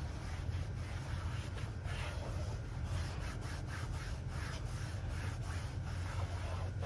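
A brush scrubbing a sudsy engine-bay surface in repeated short strokes, over a steady low hum.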